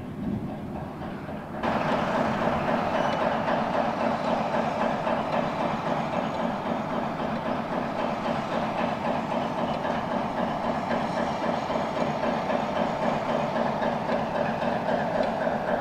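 Class 60 diesel locomotive 60041, with its eight-cylinder Mirrlees engine, running steadily as it draws a rake of stone hopper wagons past, their wheels rumbling and clacking over the rail joints. The sound jumps louder about a second and a half in.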